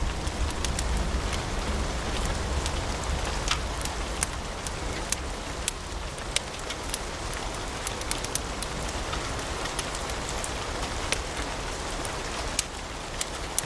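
Wood fire crackling in a fireplace: a steady low rumble and hiss, with frequent, irregular sharp pops and snaps from the burning logs.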